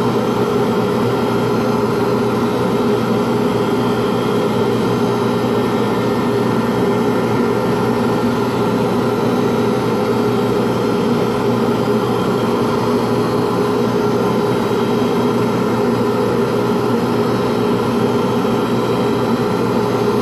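Pen lathe motor running steadily with a constant hum, while the spinning pen blank is wet-sanded at fine 3600 grit.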